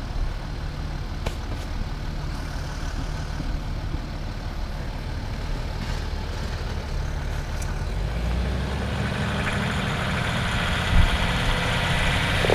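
A 4x4's engine running low, then revving harder from about eight seconds in as it tries to climb a slippery slope on recovery boards that are not quite gripping. A knock sounds about eleven seconds in.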